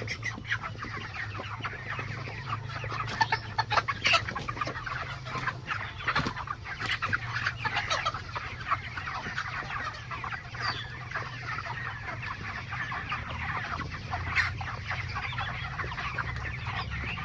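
A large flock of broiler chickens clucking and chattering continuously, many short overlapping calls at once, over a steady low hum.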